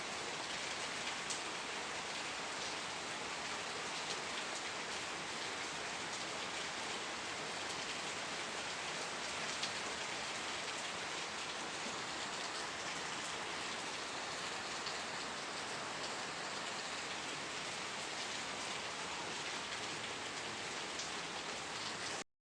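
Steady rain falling, a dense even hiss with scattered drops ticking through it; it cuts off abruptly near the end.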